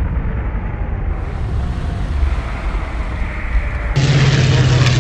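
Deep, steady rumble of an explosion. About four seconds in it cuts abruptly to a louder recording with a steady low hum.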